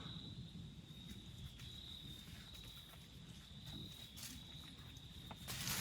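Faint outdoor background: a steady high-pitched insect drone, with a few light clicks and a short rustle near the end.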